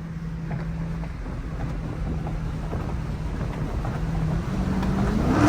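Car engine running with a steady low drone, then rising in pitch and getting louder in the last second as it revs up under acceleration.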